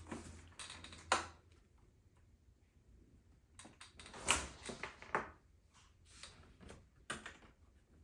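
Unboxing handling noise: rustling with scattered light knocks as the robot vacuum's packaging and parts are moved about, one sharp knock about a second in and the loudest knocks around four to five seconds in.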